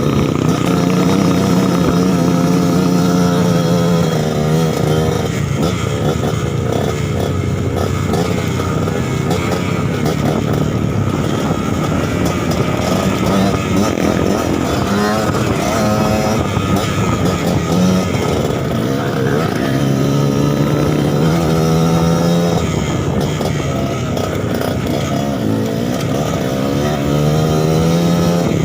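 Suzuki TS 125 two-stroke trail motorcycle engine running, its note rising and falling again and again with the throttle.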